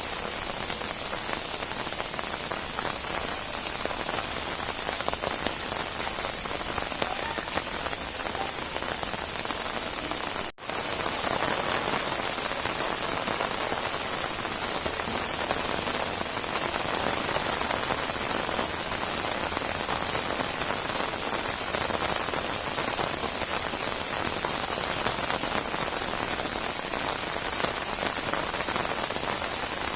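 Steady rain falling in a rainstorm, an even hiss of drops on surfaces. The sound cuts out for a split second about a third of the way through and comes back slightly louder.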